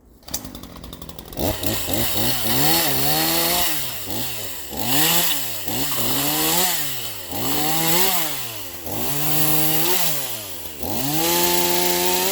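Troy-Bilt TB4218 42cc two-stroke chainsaw starting up and catching about a second in. It is then revved up and let down again about seven times, each rise lasting a second or so, and held at high revs near the end.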